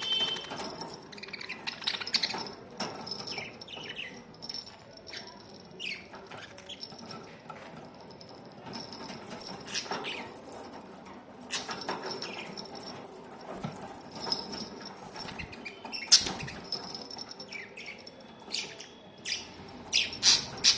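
Pet budgerigars chirping and chattering in quick short calls, with scattered sharp clicks and knocks, several of them loud near the end.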